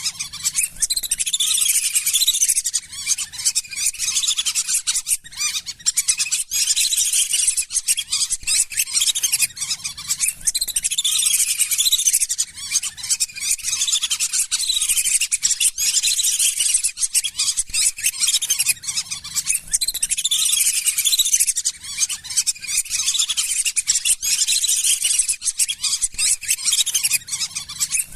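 A flock of lesser whistling ducks calling continuously: many overlapping shrill, high-pitched whistles and chirps, with no break.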